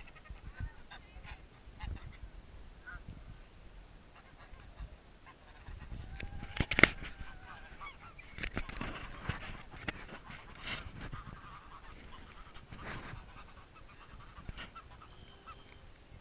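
Birds being fed bread, calling in short bursts among scattered clicks and knocks. The loudest is a sharp sound about seven seconds in.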